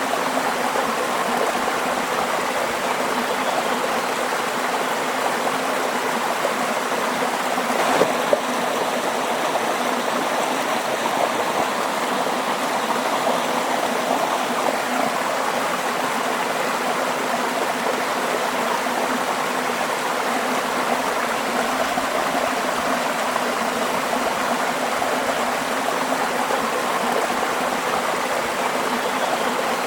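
Stream water flowing steadily, an even rushing and babbling with no break. A single sharp click sounds about eight seconds in.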